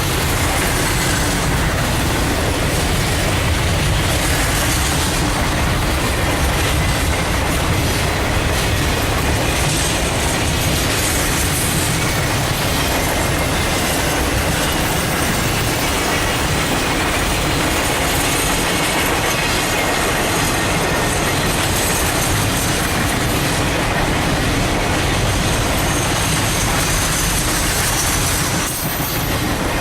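A train's cars rolling past at close range: a steady loud clatter of wheels on the rails, with a faint squeal of wheels against the rail.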